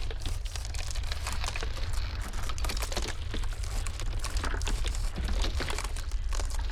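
Iceberg ice cracking in a dense, irregular stream of fine crackles and snaps, over a steady low rumble of blizzard wind.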